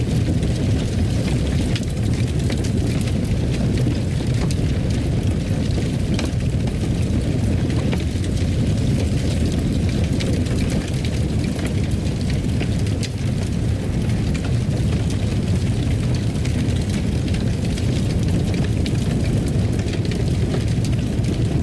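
Fire burning in a fireplace: a steady low rumble with scattered sharp crackles and pops throughout.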